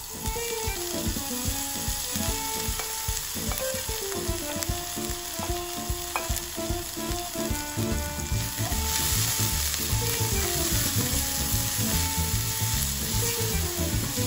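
Sliced spring onions sizzling and frying in hot oil in a nonstick wok, the hiss growing a little stronger about nine seconds in.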